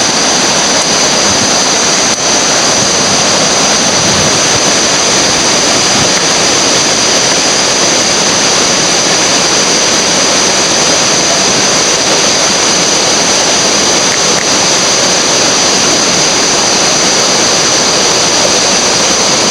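Loud, steady rush of river whitewater rapids, with no let-up.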